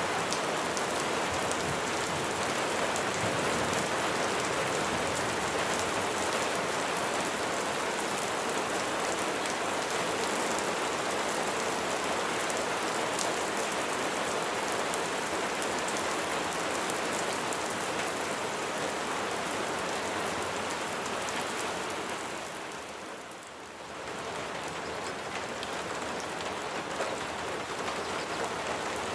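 Steady rain falling and pattering on a surface, a dense even hiss of drops. About three quarters of the way through it briefly fades quieter, then swells back.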